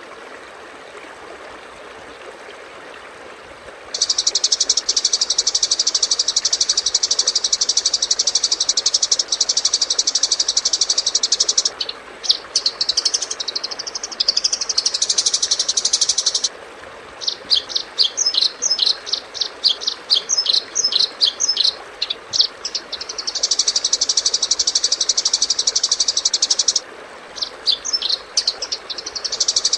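Recorded songbird calls played as training song. A dense, high-pitched buzzing trill starts about four seconds in and holds for several seconds, then breaks into warbling sweeps and a run of rapid, separate chattering notes, before the buzzing trill returns twice.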